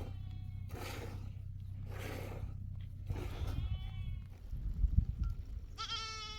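A flock of sheep bleating, several separate calls, some hoarse and some clear and high-pitched, with a clear high bleat near the end. A low steady rumble runs underneath, and a short low thump comes about five seconds in.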